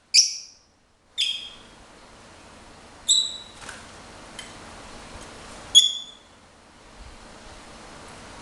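Pet lovebird giving four short, sharp chirps a second or more apart, with a few faint ticks between them.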